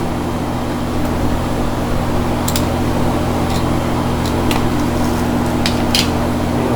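2001 Toyota Corolla engine idling steadily, which the owner suspects has a vacuum leak at idle, with a few light clicks from handling equipment over it.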